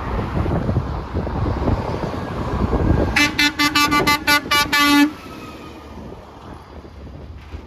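Truck air horn sounded in a quick string of about eight short blasts over two seconds, about four a second. Before the blasts, loud rumble of the passing truck with wind on the microphone.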